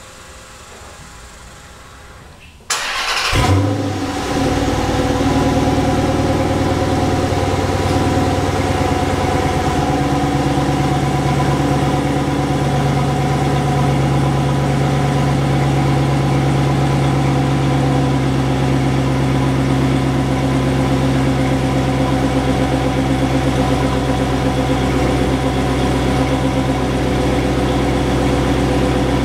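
2013 Dodge Charger Daytona R/T's 5.7-litre HEMI V8 with the mufflers deleted, starting up: a faint hum, then the engine fires a little under three seconds in with a brief rev flare. It then settles into a steady, loud idle.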